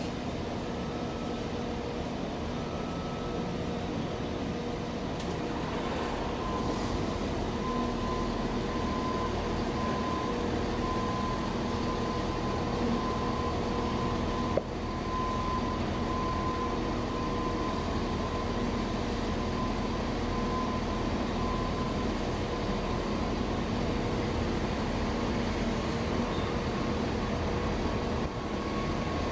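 Freight train's diesel locomotive running steadily: a constant engine drone with a held note, and a single sharp knock about halfway through.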